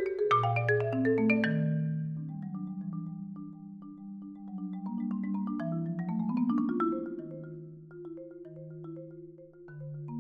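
Solo marimba played with four mallets in contemporary concert style. A fast run of notes falls into the low register about half a second in, and low notes are held as rolls under quick figures that climb again around six seconds in.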